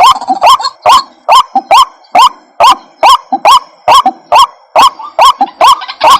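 White-breasted waterhen calling over and over, a loud, harsh rising 'kru-ak' about twice a second, each with a lower note beneath it; a recording used as a lure to call waterhens in.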